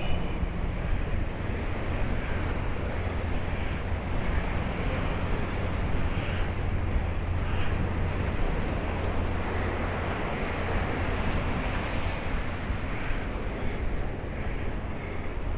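Wind buffeting the microphone, a steady low rumble, over an even hiss of outdoor noise.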